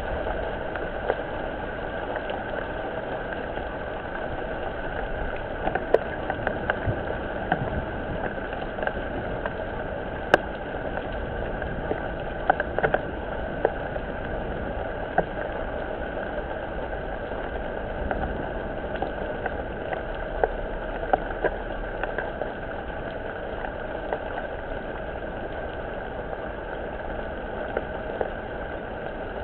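Rain falling steadily, a constant hiss with many small, irregular drop hits scattered through it.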